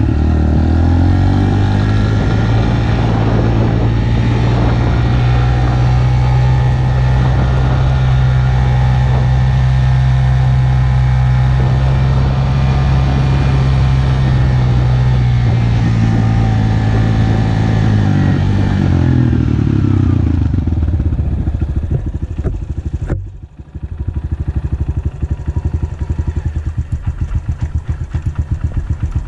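Honda 125 motorcycle engine revving up and held at a steady higher speed. It then drops back to a lower, uneven idle about 20 seconds in, with a brief click and dip a few seconds later.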